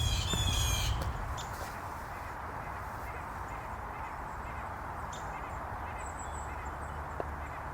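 A bird's call in the first second, then a steady outdoor background hiss.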